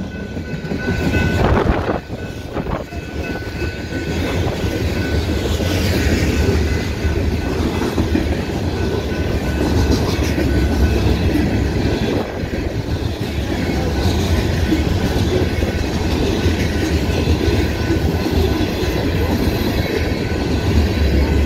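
Freight train of flatcars and covered hopper cars rolling past at close range, its steel wheels rumbling steadily on the rails.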